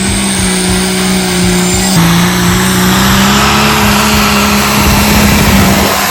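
Heavy racing engine running hard at high, fairly steady revs, with an abrupt change about two seconds in.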